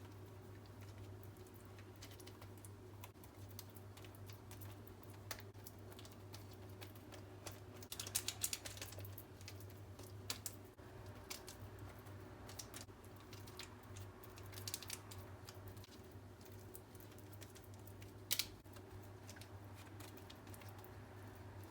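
Scattered light clicks and taps, a few of them in quick little clusters, over a steady low hum.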